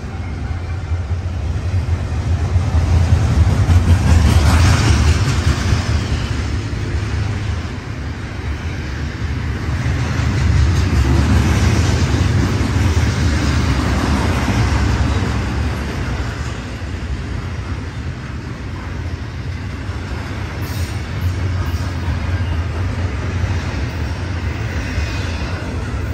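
BNSF double-stack intermodal freight train running past at speed: continuous rumble and rattle of container well cars rolling on the rails. It swells louder about four seconds in and again around eleven to fourteen seconds.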